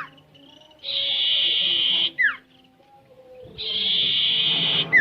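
A diku bird singing in repeated phrases: each a buzzy trill of a little over a second, ending in a quick downward-sliding note. The phrase comes about every three seconds, twice in full here.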